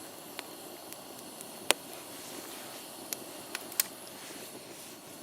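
Wood fire burning in a split-log fire pit lit with fatwood: a steady hiss with several sharp crackling pops, the loudest about a second and a half in.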